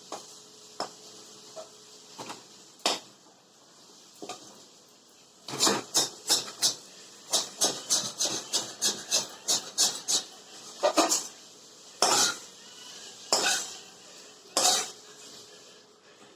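Metal spoon knocking and scraping against a cooking pan while the cooked besan is taken out of it. A few scattered clinks at first, then a quick run of knocks from about five and a half seconds in, and a few single louder knocks near the end.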